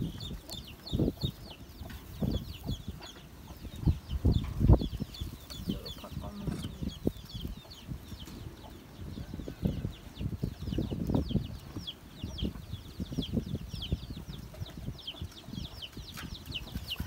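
Birds chirping constantly in the background, a dense run of short, high, falling chirps. Dull knocks and rustles of handling close to the microphone come and go, the loudest about four to five seconds in.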